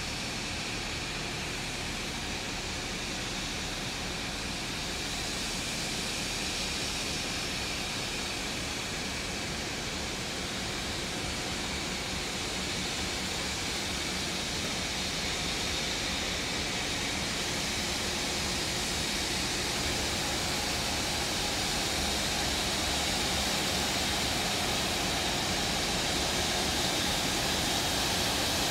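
Steady rumble and hiss of a slow-moving heritage train led past by 44 class diesel locomotives, growing gradually louder as the locomotives draw near.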